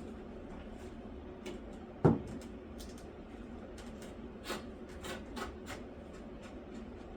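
Scattered knocks and clicks of tools and lumber being handled during wall-framing work, with one louder knock about two seconds in and a few lighter taps later.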